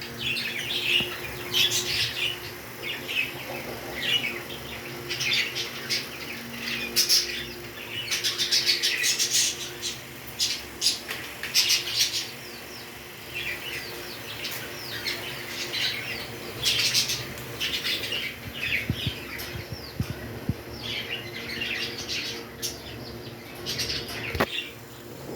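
Pet parrots chirping and squawking in short, high, scratchy calls, one after another every second or so, over a faint steady hum.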